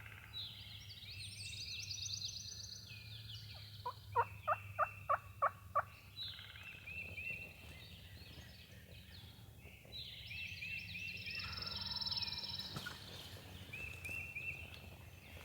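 Wild turkey calling: a run of six loud, evenly spaced notes a little after four seconds in, with songbirds chirping and trilling around it.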